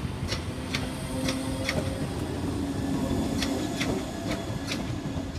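Class 322 electric multiple unit pulling away past the platform, its wheels clicking sharply and irregularly over rail joints, with a steady low hum underneath for a few seconds.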